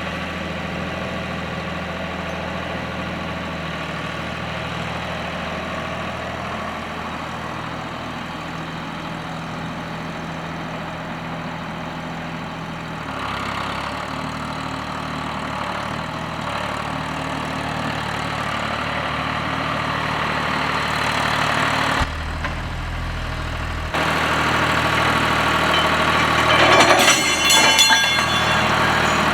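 John Deere 1530 tractor's three-cylinder diesel engine running steadily, its note shifting about halfway through and gradually getting louder. A brief clatter comes near the end.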